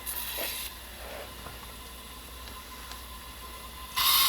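Coleman 502 white-gas pocket stove burning with a faint hiss, a brief hissing burst at the start; about four seconds in the burner's hiss jumps suddenly to a loud steady rush as the valve opens up and the generator runs properly.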